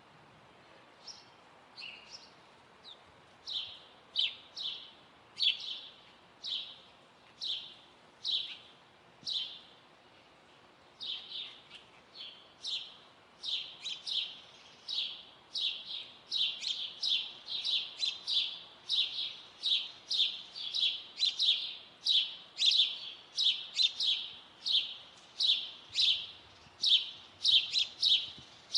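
Small songbird chirping: a long series of short, high notes that each drop quickly in pitch, about one a second at first, then quickening to about two a second in the second half.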